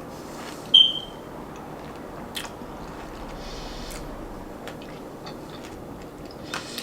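Chewing and crunching on a mouthful of pomegranate seeds, fruit and ice cubes, with a few sharp crunches spread through it. A short high-pitched squeak about a second in is the loudest sound.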